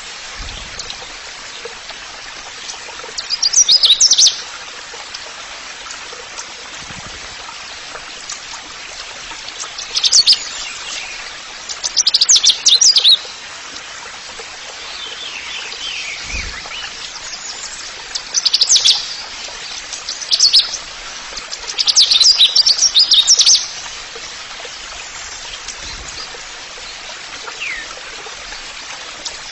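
Songbird chirping in rapid, high-pitched bursts of a second or two, repeated every few seconds over a steady background hiss like running water.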